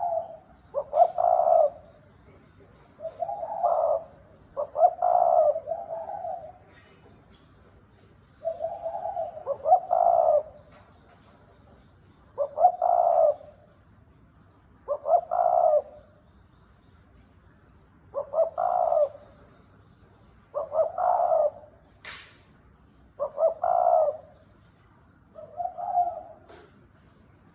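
Spotted dove cooing over and over, each short phrase of a few coos coming about every two to three seconds.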